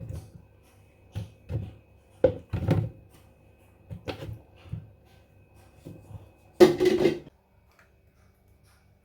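Kitchen handling sounds: a string of light, uneven knocks and clatters as things are picked up and set down, with one louder, denser clatter lasting under a second about two-thirds of the way in.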